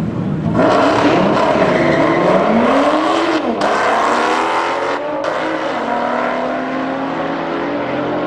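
Race car accelerating hard down a drag strip, its engine note climbing with short breaks at the gear changes, about three and a half and five seconds in.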